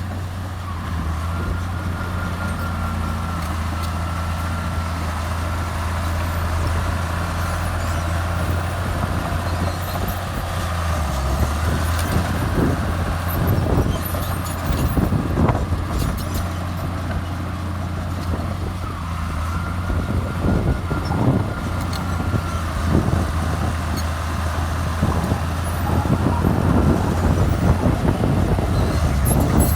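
Heavy diesel earthmoving machine, most likely the Komatsu bulldozer, running steadily under work. A higher whine comes and goes over the engine note, and there are several clanks in the middle and later part.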